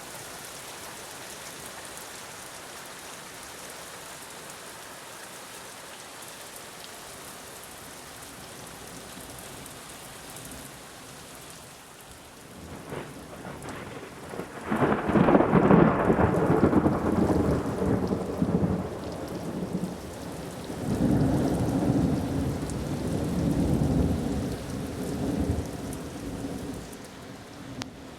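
Steady rain falling, then about halfway through a close thunderclap breaks loud and rumbles for several seconds, swelling again into a second long rumble before fading back to the rain.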